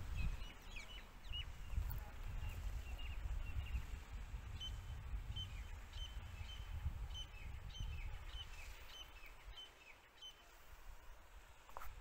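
Small birds chirping, a quick series of short high notes repeated for most of the stretch, over a low, uneven rumble that eases off near the end.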